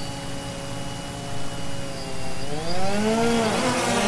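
DJI Phantom 2 quadcopter's electric motors and propellers humming steadily, then the whine rises in pitch and wavers about two and a half seconds in as the throttle comes up, getting louder.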